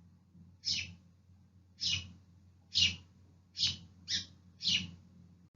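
House sparrow chirping: six short, high, falling chirps about half a second to a second apart, over a steady low hum.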